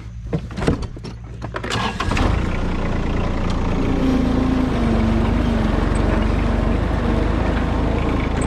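A few clicks and knocks, then about two seconds in a tractor's diesel engine revs up and runs steadily as the tractor drives off.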